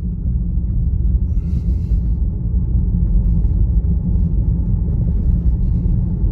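Steady low road and tyre rumble inside the cabin of a moving Tesla Model Y electric car, picked up by a phone on the dashboard, with a brief hiss about a second and a half in.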